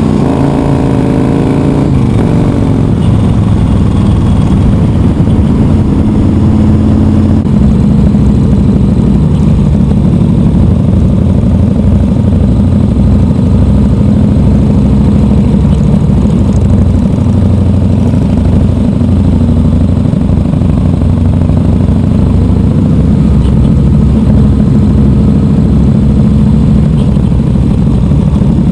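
Big V-twin motorcycle engine with aftermarket exhaust running loudly under way, its pitch shifting over the first couple of seconds and then holding fairly steady.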